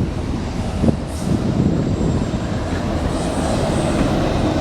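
Freight train cars rolling past on the track: a steady rumble of wheels on rail.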